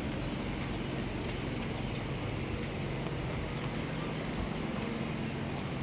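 Steady low hum of a running vehicle engine amid street traffic, with a few faint ticks.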